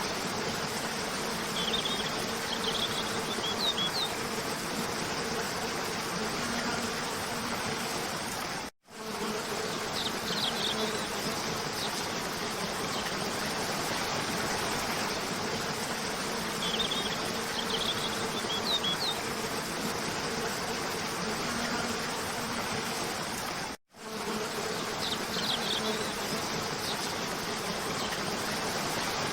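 Steady rush of a cascading waterfall layered with a steady insect buzz and small groups of short, high bird chirps that recur every seven or eight seconds. The sound cuts out briefly twice, about 9 and 24 seconds in, where the looped track joins.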